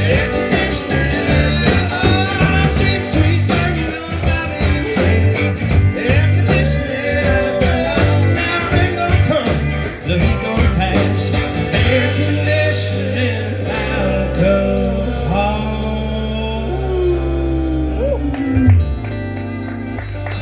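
Live band with guitars, bass and drums playing the instrumental close of a song. About 14 seconds in the drums drop out and the band holds a final ringing chord, with a guitar line sliding down in pitch near the end.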